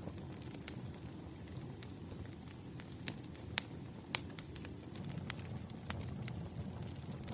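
Burning firewood crackling: irregular sharp pops, about seven clear ones, over a steady low rumble of the flames, with a faint thin high whistle in the first couple of seconds.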